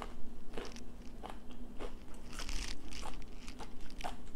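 Fried chicken gizzards being chewed, crisp crunches about every half second.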